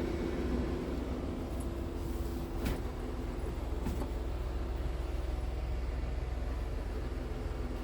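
Diesel engine of a Scania R tractor unit idling steadily, a low even hum, with two light clicks near the middle.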